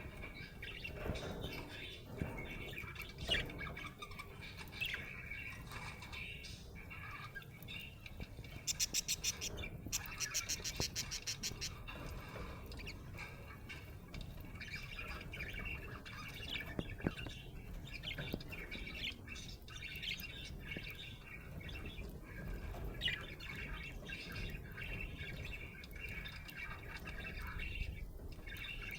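Budgerigar chirping and chattering continuously, with squawks mixed in. About nine seconds in comes a fast run of rapid clicking pulses lasting some three seconds.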